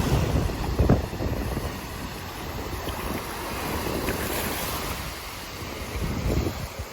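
Ocean surf washing on a beach, with wind buffeting the microphone in gusts.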